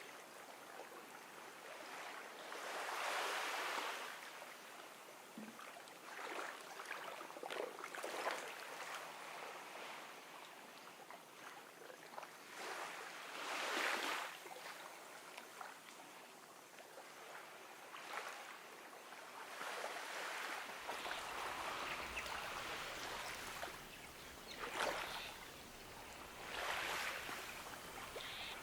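Gentle sea waves washing in on a beach. The wash swells and fades every few seconds, with small splashes between the swells.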